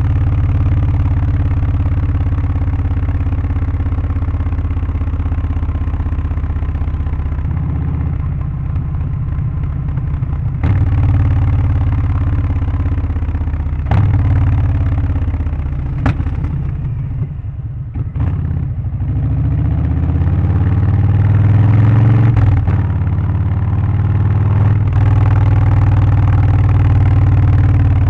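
Harley-Davidson Low Rider ST's Milwaukee-Eight 117 V-twin, Stage 1 tuned with aftermarket exhaust and air filter, running under way with a loud, deep exhaust note. The note changes abruptly several times. It eases off about eighteen seconds in, then climbs again as the bike accelerates.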